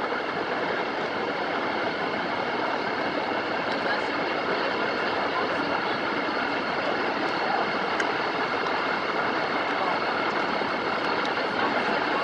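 Steady, even noise of a large vehicle going by, with faint steady high tones over it.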